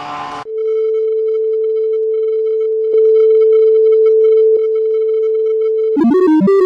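A steady electronic beep tone held for about five and a half seconds, stepping louder around three seconds in with a faint click at each change of level. Near the end it gives way to a quick run of short electronic notes jumping in pitch.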